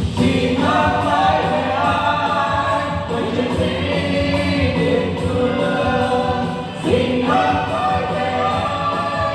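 A song with instrumental backing and a group of voices singing, new sung phrases entering about half a second in and again near seven seconds.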